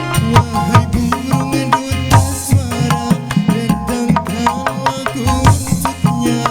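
Live dangdut koplo band playing an instrumental passage: kendang hand drums beat a fast, busy rhythm under sustained keyboard lines.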